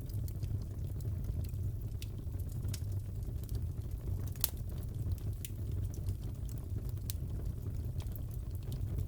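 Fireplace fire crackling: a steady low rumble of burning with scattered sharp pops and snaps, the strongest pop a little past halfway.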